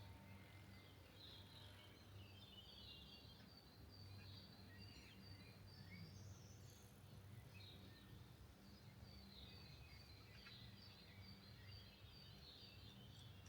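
Faint birds chirping and calling over a quiet, steady low hum, with no train or crossing sounding.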